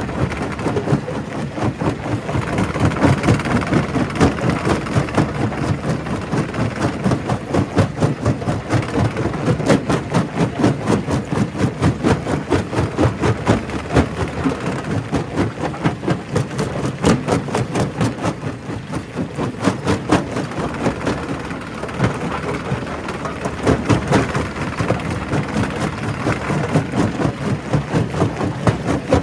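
Primary rock crusher running under load, a steady mechanical din of rock being broken with a fast, uneven pulsing of knocks and grinding.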